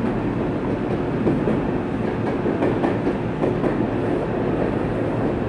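Tokyo Metro 03 series chopper-controlled electric train heard from inside the car while running: steady wheel-on-rail rolling noise with a faint steady whine underneath and a few clacks over rail joints between about one and three seconds in.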